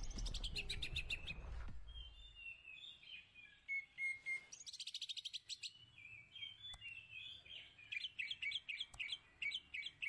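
Songbird chirping and calling. It opens with a quick run of high repeated notes, gives a few varied whistled notes midway, and near the end settles into a steady series of sharp chirps, about four a second.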